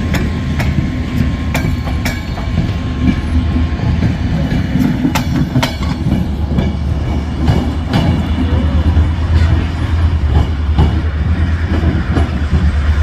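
A train rolling along the track: a steady low rumble with irregular sharp clacks of wheels over rail joints, most of them in the first half.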